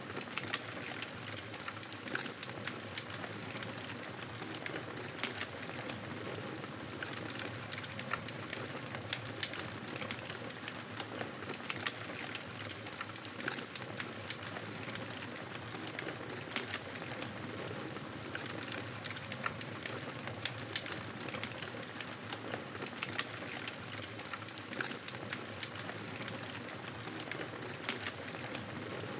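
Fireplace fire crackling: a steady hiss of flames with many small sharp pops and snaps scattered throughout.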